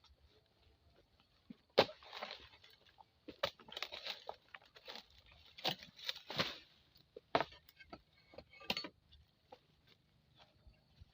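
Irregular crunching, snapping and rustling of dry, tough vegetation, in sharp single cracks and quick clusters that start about two seconds in and die away near the end.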